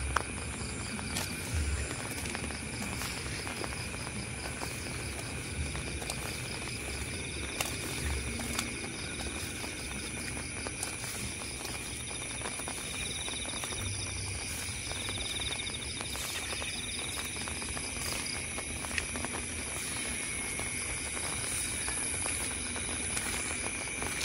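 Steady rainfall hissing, with night insects trilling in fast pulsed, high-pitched calls over it and a few faint drips and knocks.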